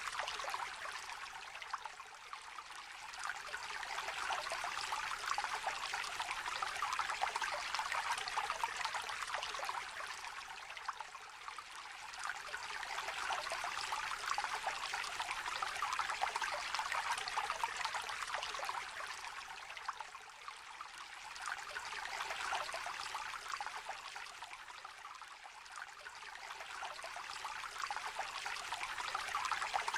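Small river trickling and babbling over stones, an even rush of water that swells and eases every several seconds.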